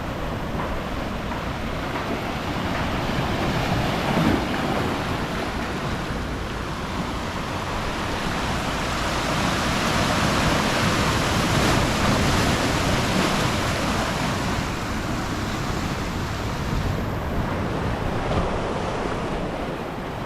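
Ocean surf washing in, with wind buffeting the microphone; the wash swells louder about halfway through and eases off again.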